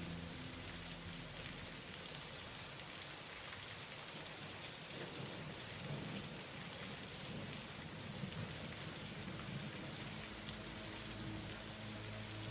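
Steady rain falling, with a low rumble of thunder around the middle.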